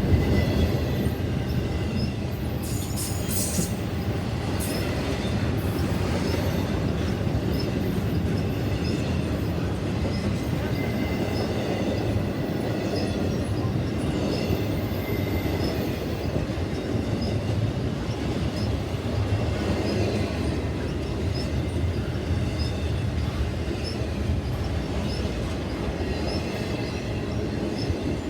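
Train cars rolling past steadily, with a continuous rumble of wheels on rail, light regular clicking and faint wheel squeal.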